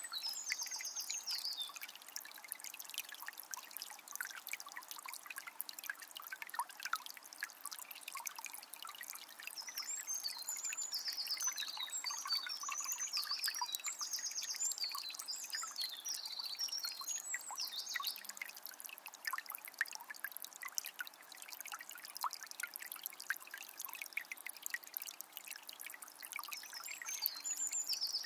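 A calm forest river trickling and splashing steadily, with small birds singing quick runs of high chirps at the start, again about ten seconds in for several seconds, and near the end.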